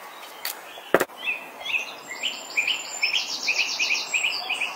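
A songbird singing a quick run of repeated high chirps, with a sharp click about a second in.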